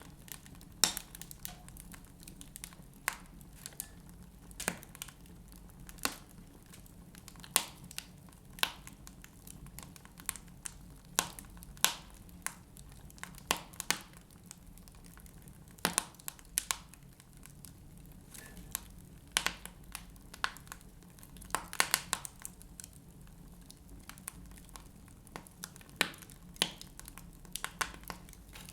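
Wood fire burning in a fireplace: irregular crackles and sharp pops, several a second, over a low steady rumble of the flames.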